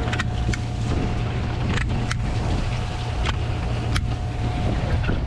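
A boat's motor running steadily, a low rumble with a faint steady whine over it, with scattered sharp clicks and knocks on deck.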